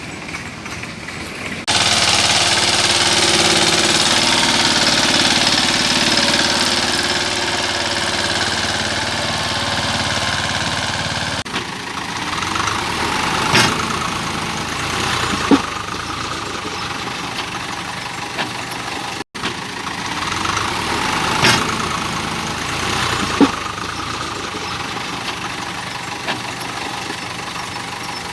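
Engine running steadily, with a few sharp clicks; the sound changes abruptly three times.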